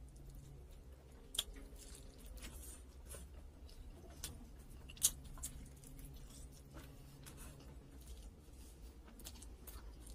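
Close-up eating sounds: boiled chicken torn apart by hand, bitten off the bone and chewed, with many short wet mouth clicks. Two sharper clicks stand out, about a second and a half in and about five seconds in, over a steady low hum.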